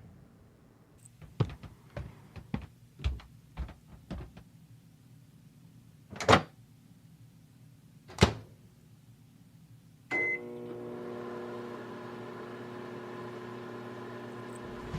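A microwave oven being set going: a run of small clicks and knocks, two loud thumps about six and eight seconds in, then a short beep about ten seconds in and the microwave starts running with a steady hum.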